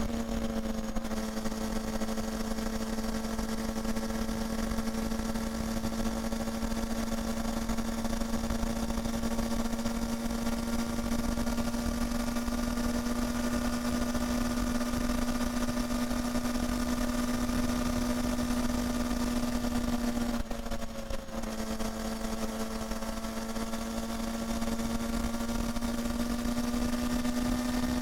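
Honda Hornet 250's inline-four engine and exhaust running at a steady, held engine speed, one high, even note. The sound drops out for about a second about two-thirds of the way through, then comes back and the revs creep up slightly near the end.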